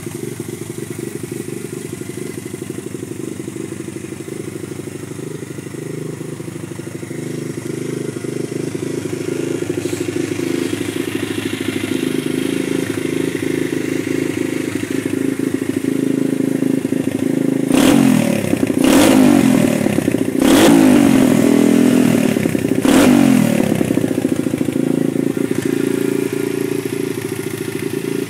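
Custom Honda CRF50 pit bike engine running at a steady idle, then revved four times in quick succession about two-thirds of the way through, each rev rising and falling back, before settling to idle again.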